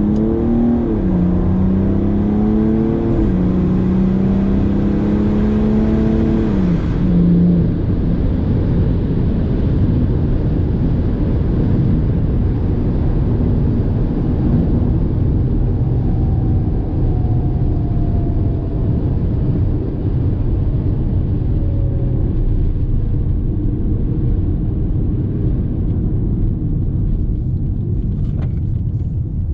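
Car engine running and revved, its pitch stepping up and down for the first several seconds, then a steady loud low rumble of engine and road noise for the rest.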